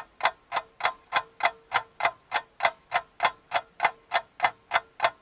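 A clock ticking in an even rhythm, about three sharp ticks a second: a steady pattern of sound.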